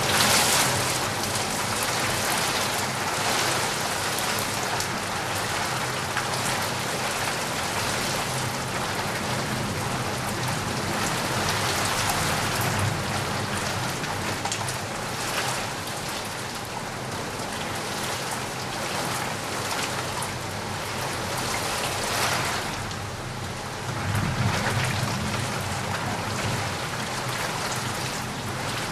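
Steady rain falling, a continuous hiss of drops, swelling louder a few times.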